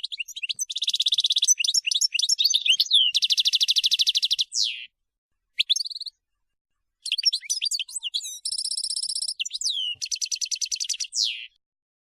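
European goldfinch singing: two long phrases of quick twittering and fast, evenly repeated trills, each ending in a falling note, with a short call between them.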